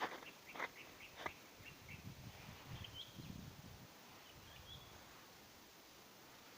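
A few footsteps crunching in snow during the first second or so, then a quiet woodland with a faint low rumble and two brief, faint bird chirps.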